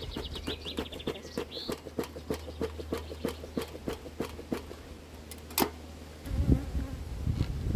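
Honeybees buzzing around an open hive, over a steady run of light clicks about three a second. A louder knock comes about five and a half seconds in, then a low rumbling handling noise near the end.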